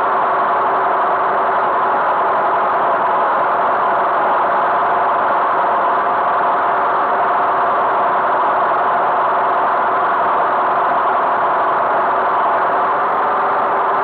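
Tractor engine running steadily at an unchanging pace.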